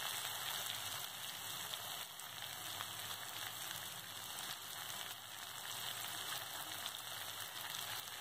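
Diced potatoes and onions frying in mustard oil in a kadai, a steady sizzle.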